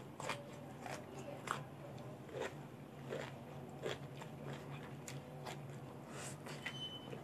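Close-up eating sounds: irregular crisp crunches and chewing of raw vegetables dipped in shrimp-paste chili dip, over a faint steady low hum.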